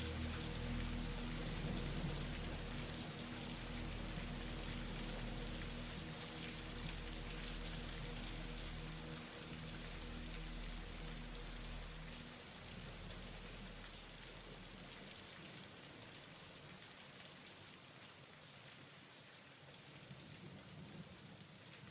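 Steady rain falling, with a low held drone underneath that dies away about two-thirds of the way through; the whole sound fades slowly toward the end.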